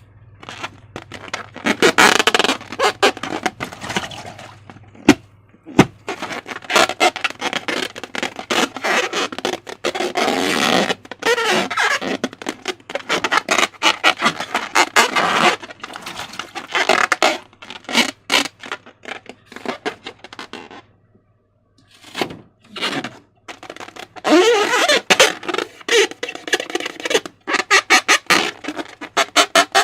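Slime being squished and stretched by hand, with irregular squelching, sticky clicks and crackling pops, pausing briefly about two-thirds of the way through.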